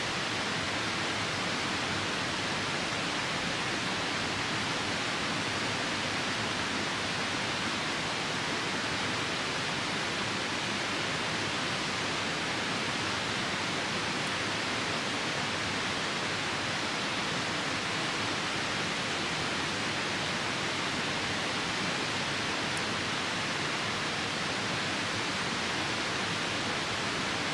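Steady rushing of a nearby river mixed with falling rain, an even wash of water noise that covers any crackle of the campfire.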